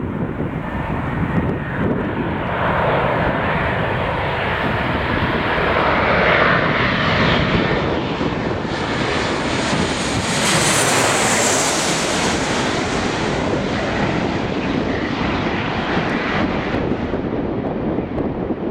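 Landing airliner passing low overhead on final approach: a loud, steady engine noise that grows brighter and peaks about eleven seconds in, then fades.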